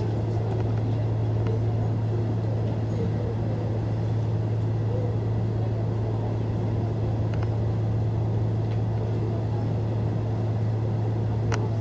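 Steady low hum and rumble of a Nishitetsu electric commuter train heard from inside the car.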